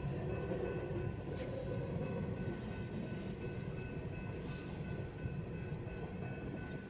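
Long freight train of empty coal cars rolling past: a steady rumble of wheels on the rails with a faint, steady high whine over it.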